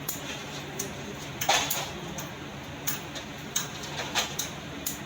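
Irregular light knocks and clatter, with one louder knock about one and a half seconds in, over a steady low hum.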